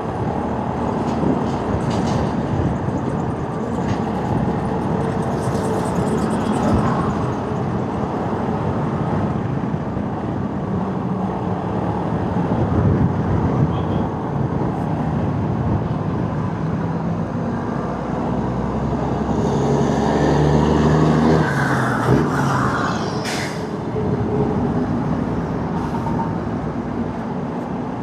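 Riding noise from a motorcycle in traffic: steady engine, wind and road rumble, with other vehicles around. A louder engine swells about twenty seconds in, followed by a brief sharp high sound.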